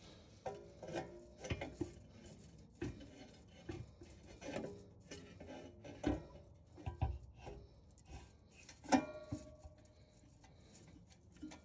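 Irregular metal clinks and clanks from a steel exhaust mid-pipe and hand tools being handled while the pipe is fitted to the car's underside. Several knocks ring briefly, and the loudest, ringing clank comes about nine seconds in.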